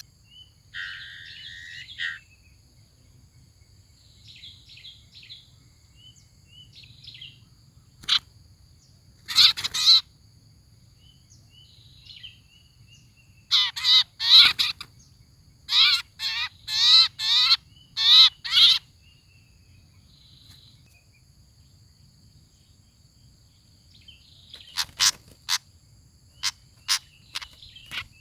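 Bird calls in short clusters, each a rapid run of harsh falling notes, loudest around the middle, with a few sharp ticks near the end. A faint steady high-pitched tone runs underneath.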